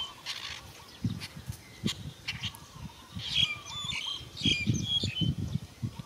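Harsh bird squawks in two short bouts, about three seconds in and again about four and a half seconds in, over irregular low thumps.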